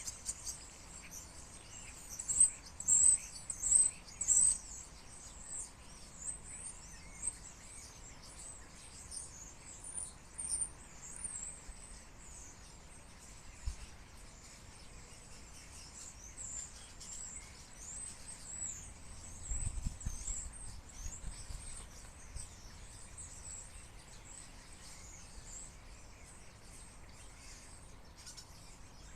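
A large flock of birds, gathered before migration, chirping and calling all at once in a dense, continuous chatter of high chirps. It is loudest in the first few seconds.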